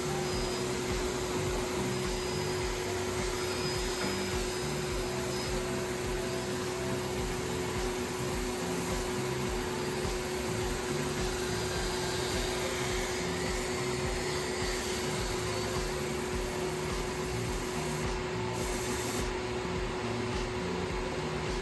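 Vacuum cleaner running steadily: a constant, even whooshing noise with a steady hum underneath.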